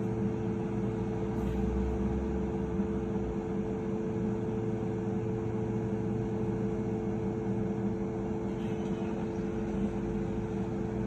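Steady hum of jet engines running at constant power, with a few even tones that neither rise nor fall.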